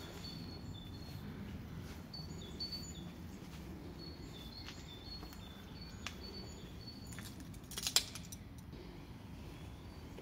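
Small birds chirping, with repeated short high calls over a steady low background rumble. A single sharp click about eight seconds in.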